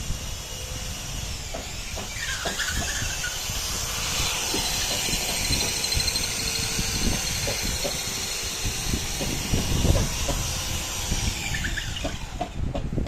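A high-pitched power tool whining for about ten seconds, coming up about two seconds in and dying away near the end, with scattered knocks and thuds of work on wood underneath.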